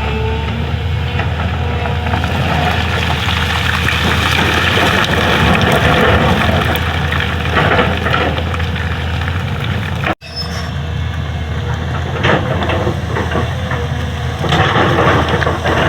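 Excavator's diesel engine running steadily, with scraping and several clanks from the bucket working the road surface. The sound drops out for an instant about ten seconds in.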